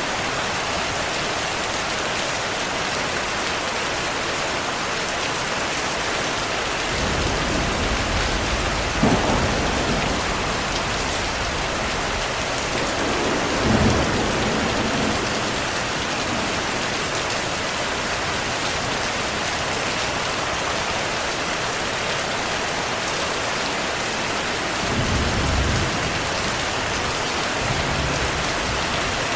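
Steady heavy rain with thunder rolling several times. Low rumbles swell from about seven seconds in and peak louder twice, around a third of the way and near halfway. Another rumble comes near the end.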